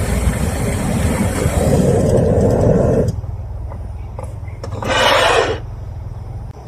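Heavy rain with a deep rolling rumble of thunder, cut off abruptly about three seconds in. After it comes a quieter low hum and a short rushing noise about five seconds in.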